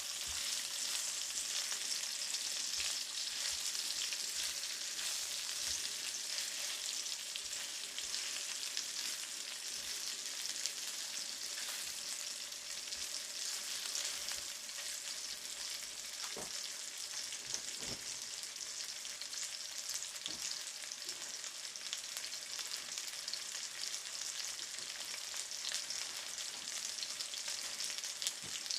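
Chicken drumsticks sizzling and crackling steadily in hot oil in a frying pan as they brown on one side.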